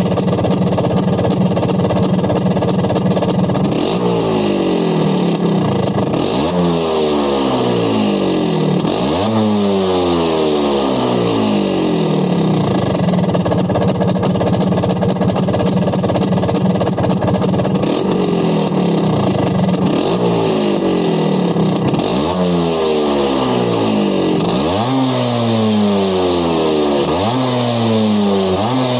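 Vespa PX two-stroke engine with a Malossi Sport 187 cylinder kit and W1R Torque+ exhaust, idling and being blipped: quick revs that climb sharply and fall back to idle, three in a row a few seconds in, then a steady idle, then another run of revs near the end.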